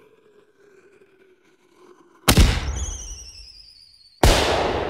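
Fireworks going off: a loud bang a little past two seconds in, followed by a warbling whistle that falls slightly in pitch, then a second loud bang near the end.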